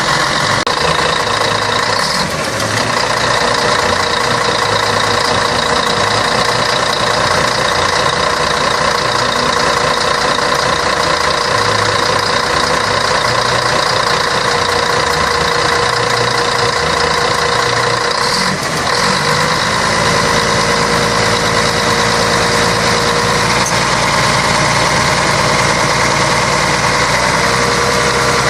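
Scania K113 bus's 11-litre straight-six diesel engine running steadily with a constant whine. The level dips briefly about two seconds in and again about eighteen seconds in.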